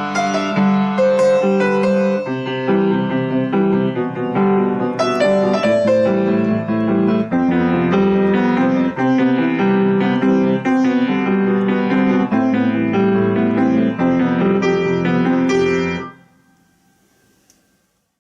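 Solo piano playing a driving pop arrangement with steady chords and melody, ending about two seconds before the end and ringing out into near silence.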